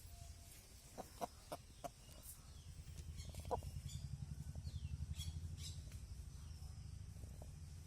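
Faint, short bird calls and high falling chirps, with a few sharp clicks in the first two seconds, over a low pulsing hum.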